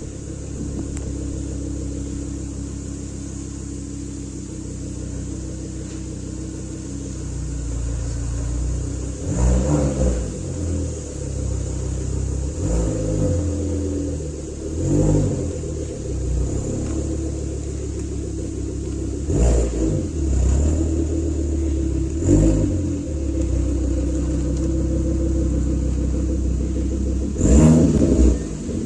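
Volvo S60 R's turbocharged 2.5-litre five-cylinder engine heard through its exhaust, idling steadily, then revved in short throttle blips from about nine seconds in, roughly eight times, the last a double blip near the end.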